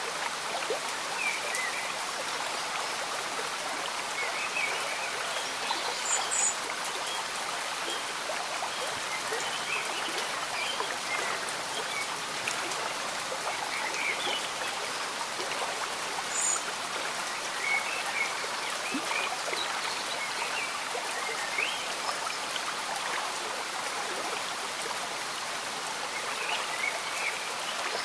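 Slow-moving stream bubbling under gentle rain, a steady wash of water, with small scattered calls now and then.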